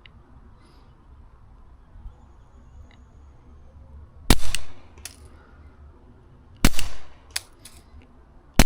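Three shots from a suppressor-equipped Taurus TX22 .22 LR pistol, a little over two seconds apart, each a sharp crack with a short tail. A much fainter tick follows each shot about three quarters of a second later.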